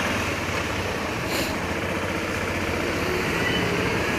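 BMW F650 GS single-cylinder motorcycle engine running steadily on the road, with wind and road rush over the helmet camera's microphone. There is a brief hiss about a second and a half in.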